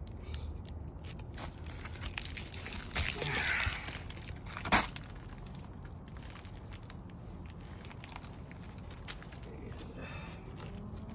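Gritty crunching and crackling of asphalt roof shingles being handled and worked, with one sharp knock about five seconds in.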